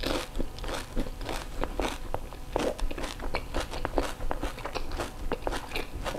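Close chewing of a whole pani puri with the mouth closed: the crisp fried puri shell crunching in quick, irregular crackles.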